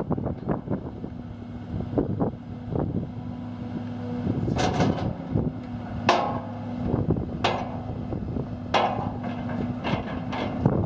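John Deere 200 CLC hydraulic excavator running, its diesel engine giving a steady hum, with loud metallic clanks and knocks from the working machine several times, the loudest about 4.5, 6, 7.5 and 9 seconds in.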